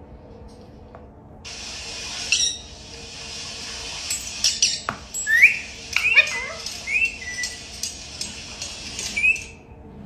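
Pet parrot giving a series of short, high, rising chirps and whistles, with a few sharp clicks, over a steady hiss.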